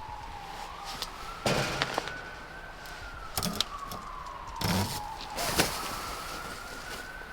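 Emergency vehicle siren wailing, its pitch slowly rising and falling about once every four seconds. Several short scraping, rustling noises come through over it.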